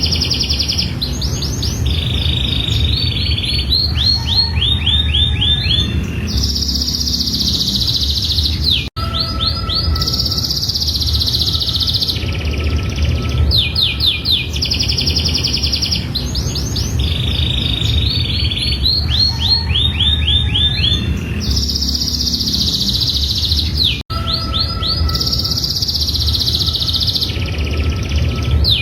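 Domestic canary singing a long unbroken song of rapid trills, each a quick run of repeated notes, switching to a new trill every second or so. The song has two brief dropouts, about nine seconds in and near twenty-four seconds in, over a steady low rumble.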